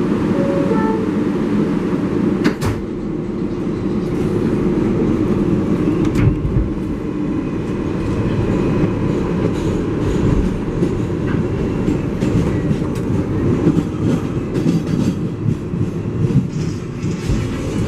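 R188 subway car running between stations: a steady rumble with rattling and wheel clatter on the rails. A short stepped chime sounds right at the start, and a sharp knock about two and a half seconds in.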